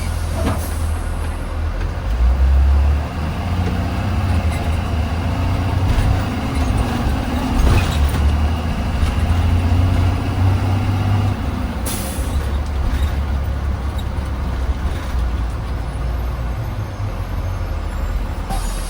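2020 Blue Bird Vision school bus under way, heard from inside: a steady low engine drone with road noise, and a short burst of air-brake hiss about twelve seconds in and again near the end.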